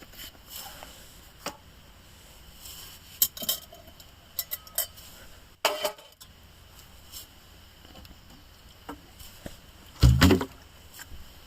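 Scattered light clinks and knocks of cookware and utensils being handled, with a heavier thump about ten seconds in.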